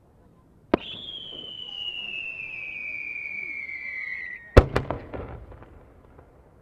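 A firework shell goes off with a sharp pop, then gives a long whistle that falls steadily in pitch for about four seconds. It ends in a loud burst, a second crack right after it and a trail of crackling.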